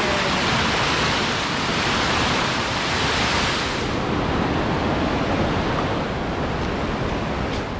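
Fast-flowing water rushing steadily, its hiss easing slightly about halfway through.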